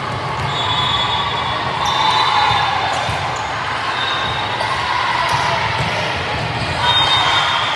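Echoing gym during a youth team match on an indoor court: a ball bouncing, short high squeaks that recur a few times, and a steady hubbub of players' and spectators' voices.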